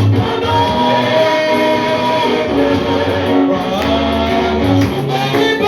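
Live church worship band playing a slow worship song, with guitar and bass, in a gap between the sung lines.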